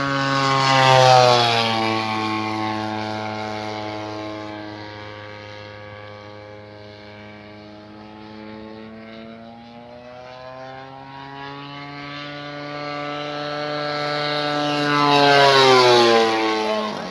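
Petrol-engined radio-controlled model airplane flying past twice, its engine note falling in pitch as it goes by close, about a second in and again near the end. Between the two passes it grows fainter.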